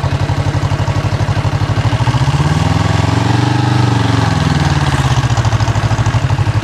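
1973 Yamaha TX500's air-cooled parallel-twin engine idling with an even pulse. About two seconds in it is revved once, rising smoothly and then settling back to idle.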